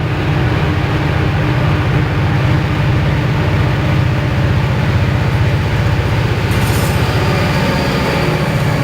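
Train passing close by: a diesel locomotive running under power, with a loud, steady low rumble and a fast even throb from its engine.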